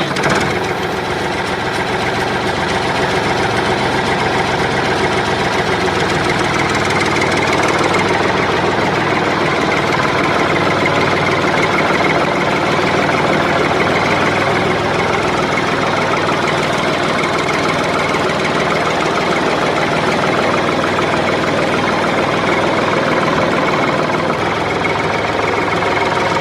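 Tractor-type engine running steadily at an idle-like pace with a rapid knocking rattle.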